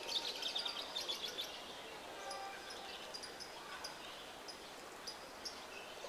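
Small birds chirping over faint steady outdoor background noise: a quick run of chirps in the first second and a half, then scattered short high chirps.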